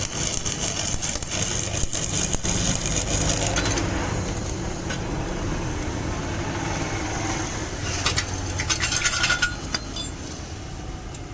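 Repeated metallic clinking and rattling in two spells, near the start and again about eight seconds in, over a low steady hum.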